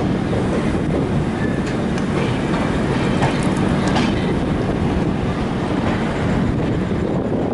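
Rajdhani Express passenger train running at speed: a steady loud rumble of the coaches on the track, with scattered clicks and clacks from the wheels passing over rail joints.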